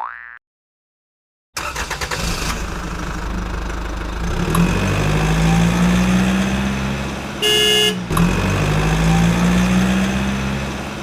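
A motor vehicle engine running, starting about a second and a half in, its pitch swelling and easing, with one short horn honk about seven seconds in.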